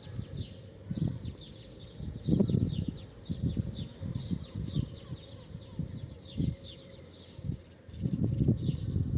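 A flock of small birds chirping continuously in dense, overlapping high chirps, with low rumbling bursts underneath that are loudest about two and a half seconds in and again near the end.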